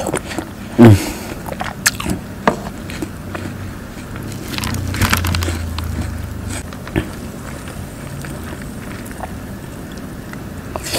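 Close-miked biting and chewing of crisp watermelon slices, with several sharp crunches.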